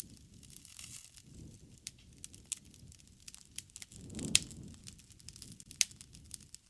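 Campfire crackling: irregular sharp pops over a low, steady sound of the burning flames, with a brief louder swell and a loud pop about four seconds in.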